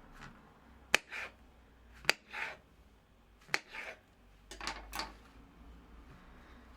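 Kitchen food-preparation handling sounds: three sharp knocks about a second apart, each followed by a brief soft scrape or rustle, then a quick cluster of clicks and rustles.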